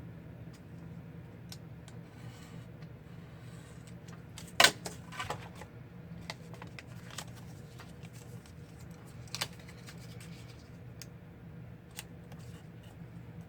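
Parchment paper being trimmed and handled: a few sharp snips and clicks, the loudest about four and a half seconds in and another near nine and a half seconds.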